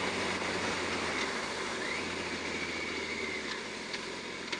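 Yamaha R1 inline-four motorcycle engine running low and easing off as the bike slows for a red light, with wind noise over the helmet microphone fading as it slows. Two faint clicks come near the end.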